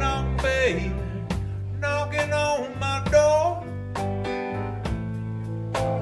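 Blues band playing, with a lead line of bending, sliding notes over a steady bass and regular drum beats.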